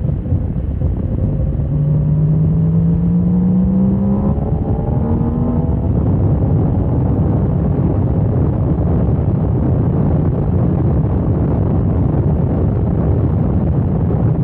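Heavy wind rush over the microphone of a motorcycle at track speed. From about a second and a half in, a motorcycle engine note climbs steadily in pitch for a few seconds, then sinks back into the wind noise.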